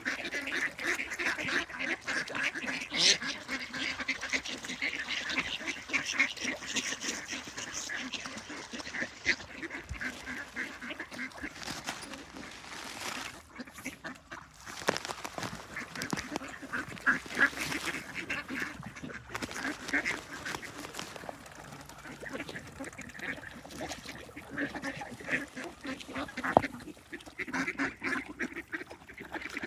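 A flock of ducks quacking, many short calls overlapping in a busy chorus that thins a little midway.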